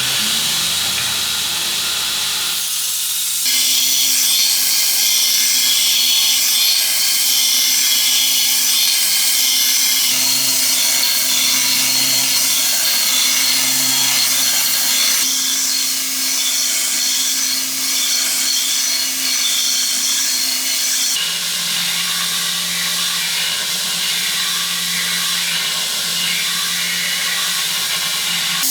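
Electric power tool running steadily, grinding on steel with a loud hiss over a motor hum. The sound shifts abruptly a few seconds in, again about halfway and again about two-thirds through, each time with a change in the motor's pitch.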